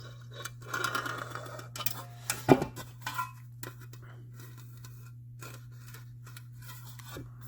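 Thin metal body trim being handled and laid against another trim piece: rustling and scraping, a few light clicks and a sharp knock about two and a half seconds in, then only faint ticks over a steady low shop hum.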